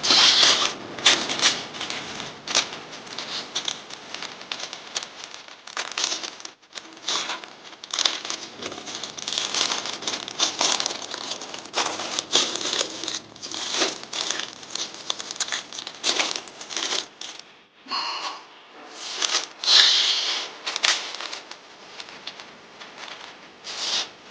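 Masking paper crinkling and rustling as it is handled and folded, in irregular bursts, with the loudest moments about a second in and again near 20 seconds.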